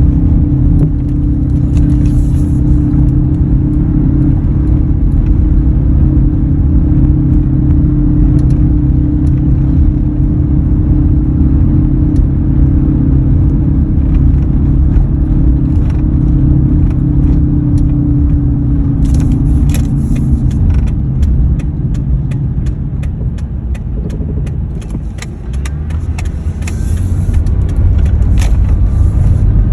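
2003 Ford F-150 running, with a steady low hum over rumble. The hum fades about two-thirds of the way through, and the sound dips briefly before swelling again near the end. The cause of the hum is unknown and could be a number of things.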